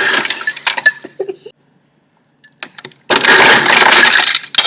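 Refrigerator door ice dispenser running, ice clattering out of it: a spill of clinks in the first second and a half, a short pause, then a loud, continuous rush of ice from about three seconds in.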